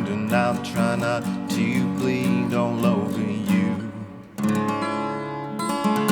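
Acoustic guitar strummed under a man singing, the voice trailing off about three and a half seconds in; a new strummed chord rings out about four and a half seconds in.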